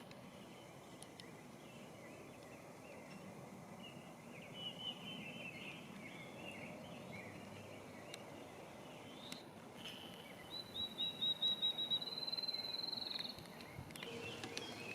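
Songbirds singing: a faint, wandering warble, fitting a rose-breasted grosbeak singing quietly, for several seconds. About ten seconds in, a louder, even trill of quick repeated high notes from another bird runs for about three seconds.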